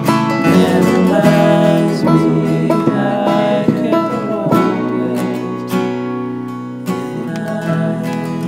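Instrumental passage of a country/folk song led by acoustic guitar, with plucked notes and sustained chords.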